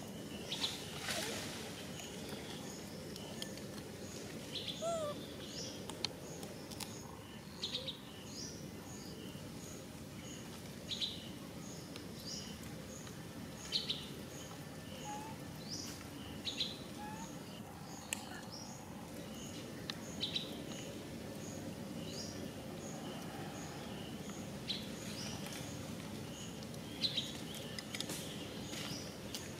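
Birds chirping: short high chirps every couple of seconds, with a faint peep repeating steadily about twice a second, over a steady outdoor background.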